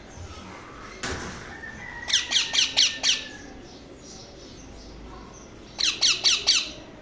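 Green parrot chick squawking in two bursts of rapid, harsh, falling calls: five about two seconds in and four more near the end. A short knock comes about a second in.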